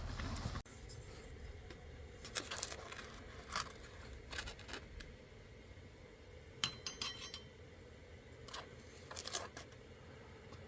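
Camp cooking gear being handled: scattered light clinks and knocks of pots and utensils, with one brief ringing clink about seven seconds in.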